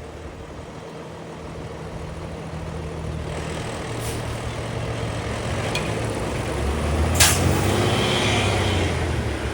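Diesel engine of a heavy construction truck running and growing louder, with a short sharp hiss about seven seconds in.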